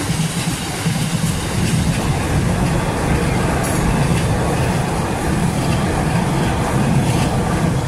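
Freight train of bogie aggregate hopper wagons rolling past close by: a steady, loud rumble of wheels on rail with a few faint clicks as the wheels cross rail joints.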